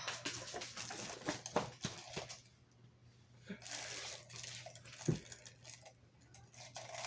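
Plastic crinkling and rustling with many light clicks and taps, from handling a party cannon while it is loaded and capped, with one dull thump about five seconds in.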